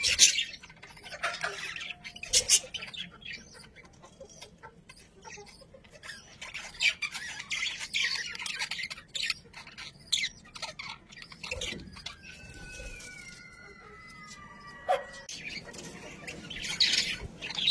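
Budgerigars chattering with rapid chirps and harsh squawks in irregular bursts, busiest near the start and near the end, with a quieter stretch in the middle.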